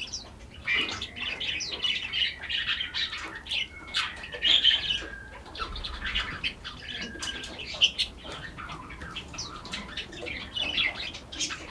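Several songbirds chirping and singing at once, a dense run of short calls and trills with a few longer whistled notes among them.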